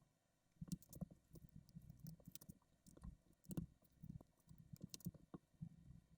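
Faint, irregular clicks and rattles of plastic LEGO bricks being handled and pressed together, sped up.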